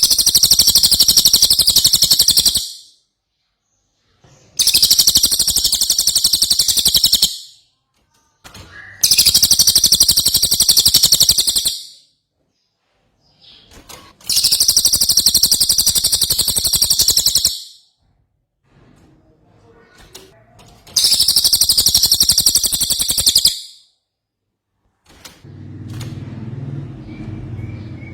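Cililin bird singing in full voice, in five long bursts of rapid, high chattering song about two to three seconds each, with short pauses between them. A faint low hum comes in near the end.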